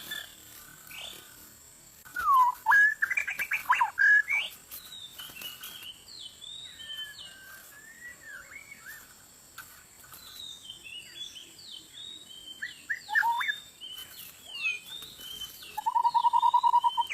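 White-rumped shama singing: a varied run of whistled phrases sliding up and down, loudest in a burst a few seconds in, with a buzzy rattle near the end.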